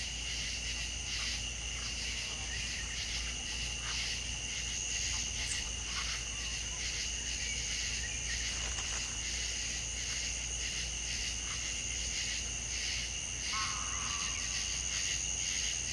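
A chorus of insects, crickets or similar, chirring steadily in an even pulsing rhythm, with a few short faint calls near the end.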